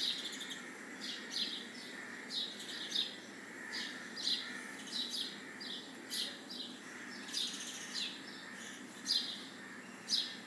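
A small bird chirping over and over: short, high, falling chirps in groups of two or three, about one or two a second.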